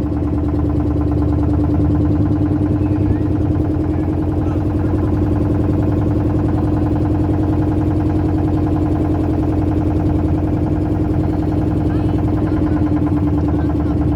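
A boat's motor running steadily, a constant low drone with a strong hum.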